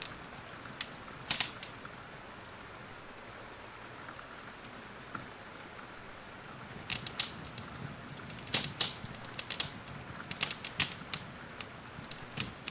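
Steady rain hiss with a wood fire crackling over it: a few sharp pops early, then a busy run of crackles through the second half.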